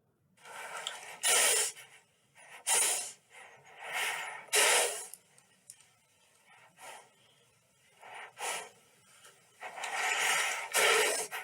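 Horse breathing out hard through its nostrils in a series of about ten short, noisy blows, some in quick pairs, with quiet gaps between.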